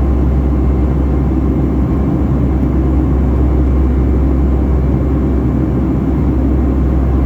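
Steady low rumble of a Boeing 757-300's jet engines heard inside the passenger cabin.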